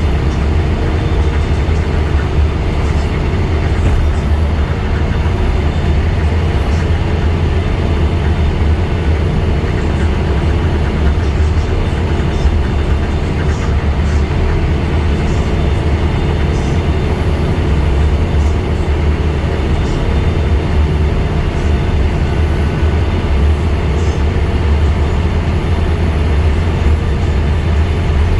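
Scania N230UD double-decker bus's diesel engine running steadily with a deep, even drone and road noise, no gear changes or stops.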